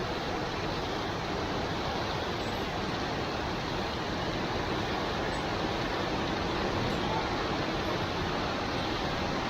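Steady rain falling, an even hiss with no thunderclap in it.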